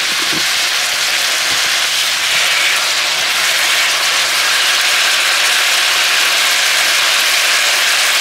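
Beef stir-fry of sliced beef, red bell pepper and onion sizzling in a frying pan: a loud, steady hiss that builds a little over the first couple of seconds.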